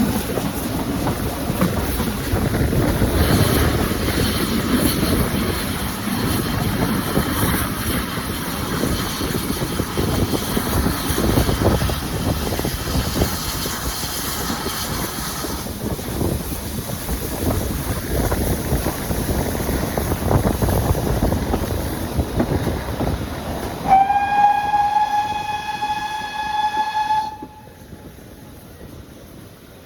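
Heritage train running with a steady rumble of wheels on rail. Near the end comes one long warning blast of about three seconds that glides up slightly at its start and cuts off sharply; the running noise drops away at the same moment.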